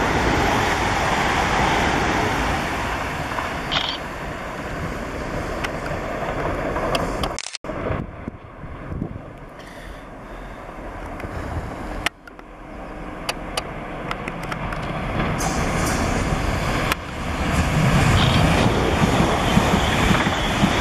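South Western Railway electric multiple-unit trains running through a station: a steady rumble and rush of wheels on rail from a train passing close by that fades away. After two abrupt cuts comes a quieter stretch while trains approach, then the noise swells again as another train passes close.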